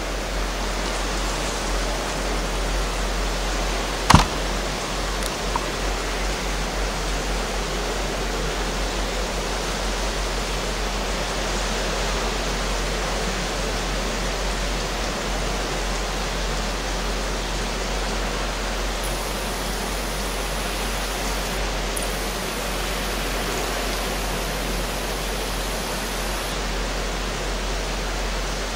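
Heavy rain pouring steadily, an even rushing hiss, with one sharp click about four seconds in.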